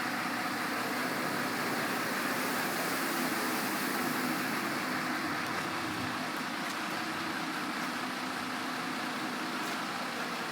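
Automatic bus washing machine running: a steady mechanical hum under a spraying hiss, the hiss easing off about halfway through.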